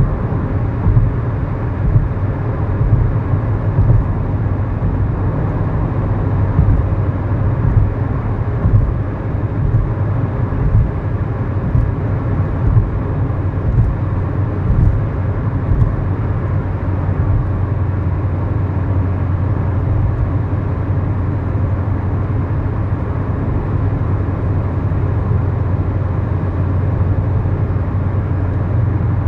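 Engine and road noise heard inside the cabin of a 2011 Kia Morning while it drives, with its 999cc four-cylinder engine humming underneath. The hum wavers in the first half and settles to an even pitch in the second half, as the car holds a steady speed.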